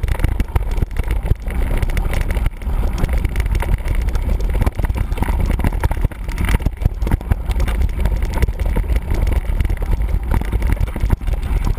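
Mountain bike being ridden, with wind buffeting the microphone as a steady low rumble and frequent knocks and rattles throughout.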